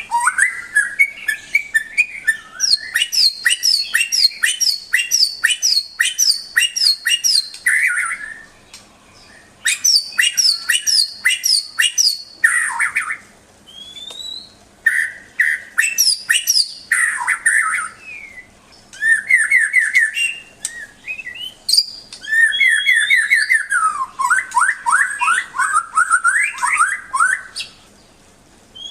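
White-rumped shama (murai batu) singing long, varied phrases of fast repeated notes, trills and rising whistles, with brief pauses between phrases.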